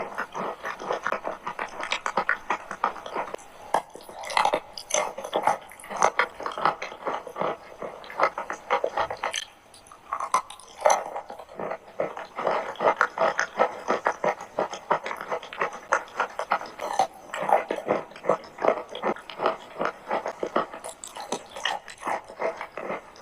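Chewing and crunching chalk with clay paste: a dense, irregular run of small crunchy clicks, with a brief pause about nine seconds in.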